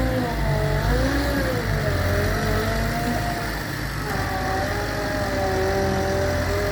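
Gehl V420 skid steer's diesel engine running, its pitch wavering up and down in the first few seconds and then holding steadier, as the engine works under changing load.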